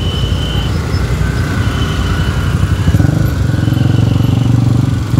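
Road traffic at a level crossing, with motorcycle engines running close by. About three seconds in, an engine grows louder as a motorcycle passes near.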